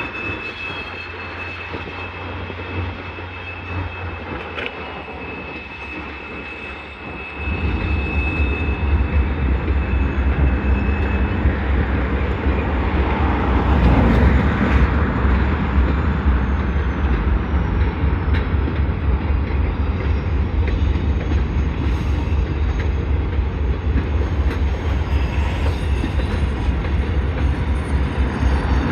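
Freight train rolling through a rail yard: a steady low rumble that gets much louder about seven seconds in, with a thin, steady high squeal over the first part.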